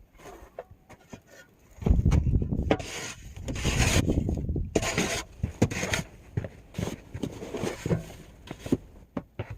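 Snow shovel scraping and pushing through heavy, wet snow: one long scrape in the middle, then shorter scrapes and knocks.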